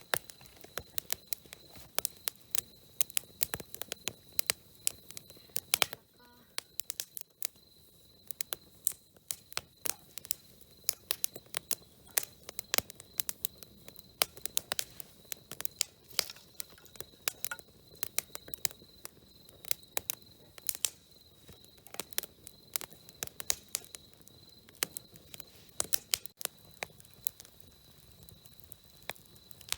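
Wood campfire crackling: irregular sharp pops and snaps, several a second, with a faint steady high tone underneath.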